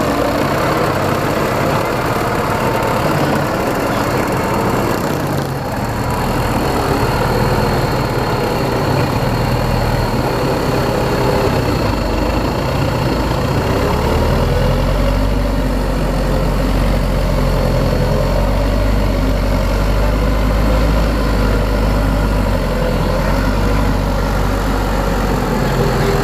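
Heavy-equipment diesel engine running steadily, its deep low end growing stronger from about ten seconds in.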